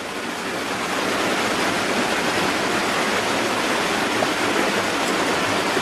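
Steady rushing noise with no pitch or rhythm, rising a little in level over the first second and then holding even.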